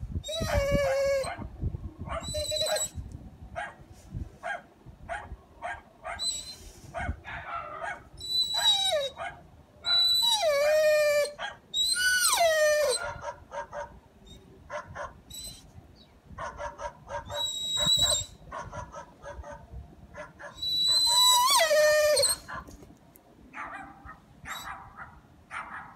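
A dog whining and yelping in a series of high cries, several of them long and sliding down in pitch about ten to thirteen seconds in and again about twenty-one seconds in.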